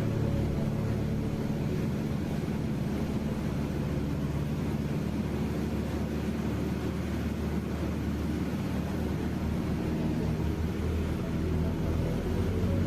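Cessna 150 light aircraft's four-cylinder piston engine and propeller running as a steady, low drone.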